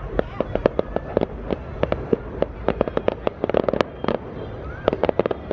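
Aerial fireworks going off in a rapid, irregular string of sharp cracks and bangs, several a second, over a continuous low rumble.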